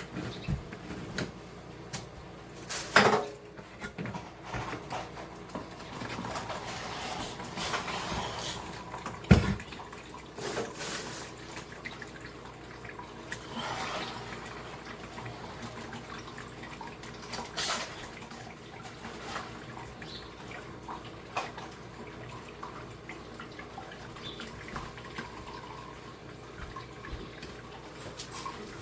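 Pineapple juice trickling and dripping through a strainer, with scattered clinks and knocks of kitchen utensils and containers; a few knocks stand out sharply.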